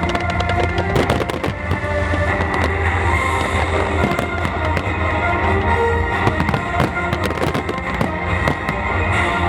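Aerial display fireworks bursting and crackling in rapid succession, with music playing under them.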